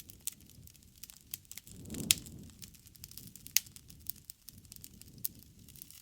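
Wood fire crackling in a fireplace: scattered sharp pops and snaps over a low rumble of the flames, with the loudest pops about two and three and a half seconds in.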